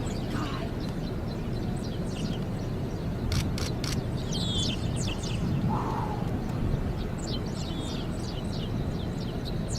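Birds chirping, with many short high chirps that fall in pitch, over a steady low rumble. A few sharp clicks come about three and a half seconds in.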